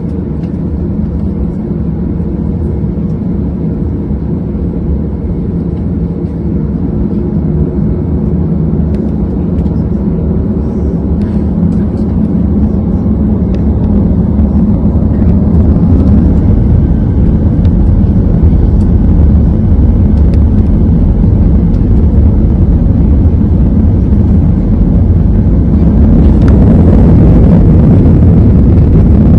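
Airbus A320 jet engines and rumble growing steadily louder, with a broader rush of noise coming in near the end, typical of the aircraft starting its takeoff run.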